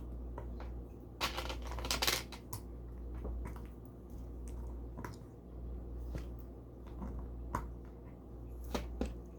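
Plastic Lego pieces clicking and rattling as they are handled, with a few short rustles, over a steady low hum from a pump.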